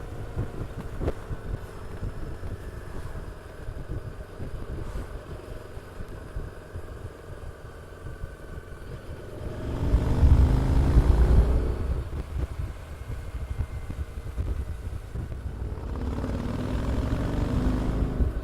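Harley-Davidson Street 750's V-twin engine and exhaust under way, with a low burble at low revs. About ten seconds in it opens up, louder and rising in pitch as it accelerates, then settles back. It rises again near the end.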